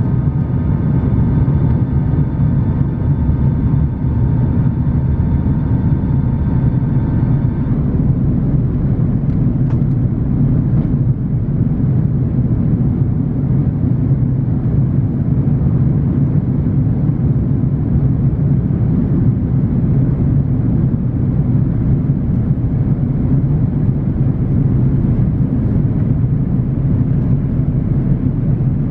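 Airbus A330-900 airliner cabin noise from a rear window seat: the steady low rumble and rush of the engines and airflow. A cluster of thin steady high tones running over it stops about eight seconds in.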